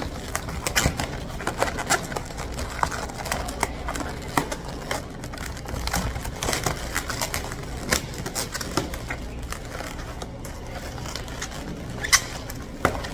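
Latex twisting balloons squeaking and rubbing against each other as they are twisted and fitted together, with many short clicks and a couple of brief sharper squeaks near the end.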